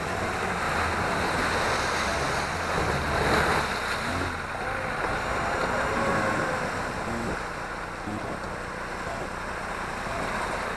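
A 4x4 off-road vehicle's engine running under load as it churns through a deep mud-and-water rut, with a steady wash of splashing and sloshing mud.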